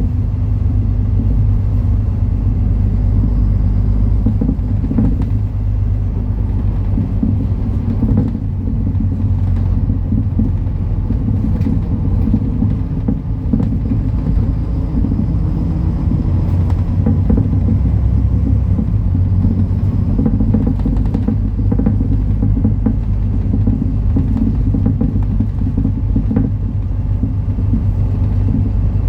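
MAN Lion's City NL293 (A37) city bus under way: a steady, loud low rumble of engine and running gear, with a few faint clicks and rattles.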